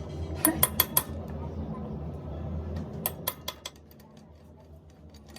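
Sharp metal-on-metal clinks from tools and diesel pump parts being handled: four in quick succession about half a second in and four more about three seconds in. Under them is a steady low machine hum that drops away near the four-second mark.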